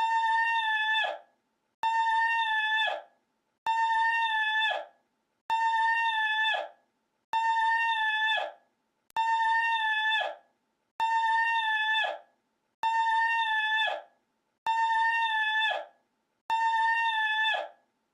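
One short call looped identically about ten times, roughly every two seconds. Each call is a held, buzzy pitched tone with many overtones that drops sharply in pitch as it ends, and the gaps between calls are silent.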